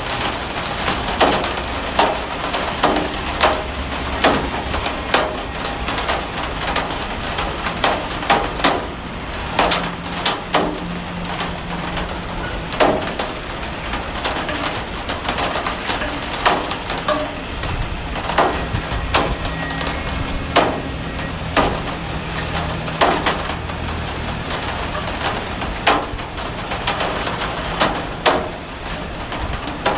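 Heavy rain falling steadily, with large drops knocking sharply and irregularly on a hard surface.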